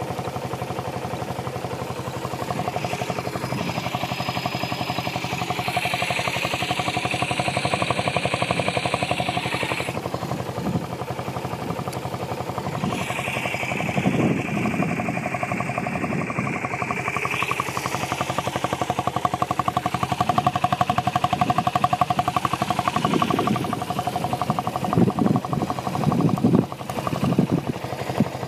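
Yamaha SRX250's single-cylinder four-stroke engine running at idle, steady throughout, with a hissing sound added for a few seconds twice.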